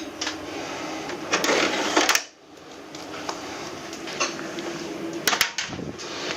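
Handling noise: scattered clicks and knocks. A loud rustling stretch about a second and a half in stops suddenly, and a quick run of clicks follows near the end.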